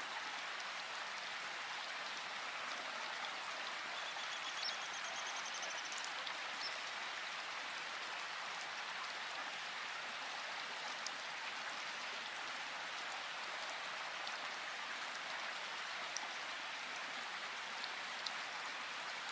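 Steady flowing water of a river, with a bird giving a short trill about four seconds in.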